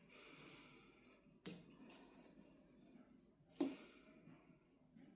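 Faint rattling and jingling of a cat toy being batted and chased by a cat, with two sharper knocks about one and a half and three and a half seconds in.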